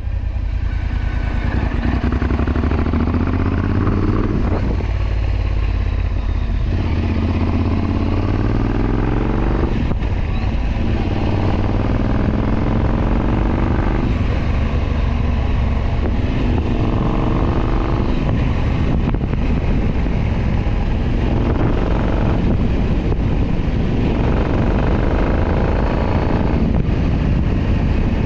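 Royal Enfield Continental GT 650's 648 cc parallel-twin engine and exhaust on the move. The revs climb over two or three seconds, drop back, and climb again, repeatedly.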